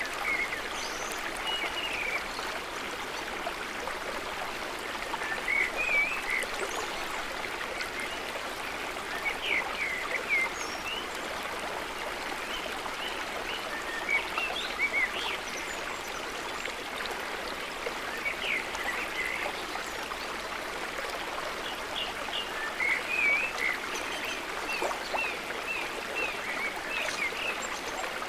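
River water flowing and splashing in a steady rush, with short high chirps in small clusters every few seconds.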